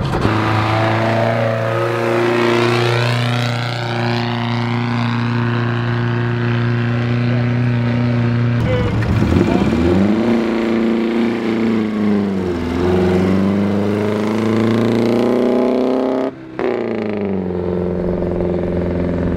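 Pre-war sports car engine running and accelerating, heard across several cut-together takes. The revs climb, drop back and climb again.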